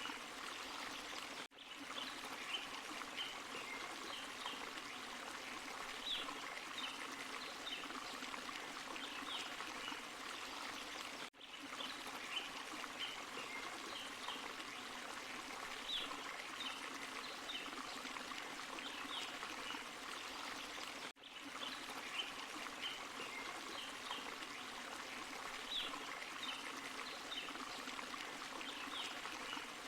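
Forest stream and small waterfall: water rushing and splashing over rocks in a steady, even wash with small bright trickles and splashes on top. The level drops out briefly three times, about ten seconds apart, where the recording loops.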